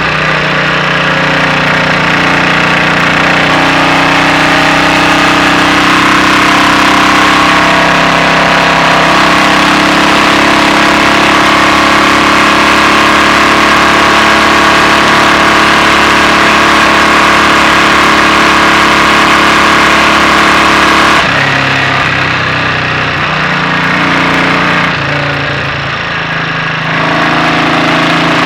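Royal Enfield Bullet 500's single-cylinder engine running steadily under way, with its inlet cam retarded by one tooth. About 21 s in the engine note drops as the throttle eases off, stays lower for a few seconds, and picks up again near the end.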